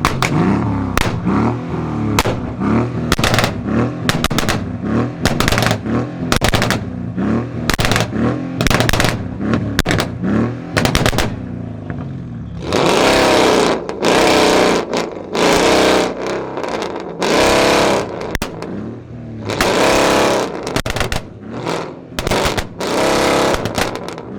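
Tuned Mercedes-Benz E500 (W212) 4.7-litre twin-turbo V8 with a custom downpipe and exhaust, revved again and again in quick blips with loud pops and bangs from the exhaust. In the second half it is held at high revs for about a second at a time, several times, crackling between revs.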